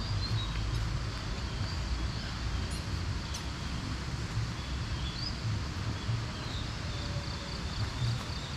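Outdoor ambience: a steady low rumble with a few faint, short, high bird or insect chirps.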